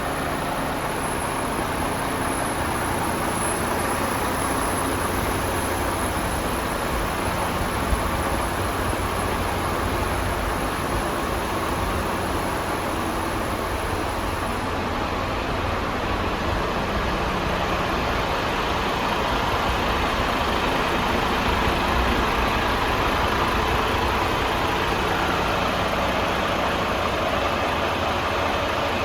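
Renault T460's 11-litre diesel engine idling steadily, a constant low running sound with no revving.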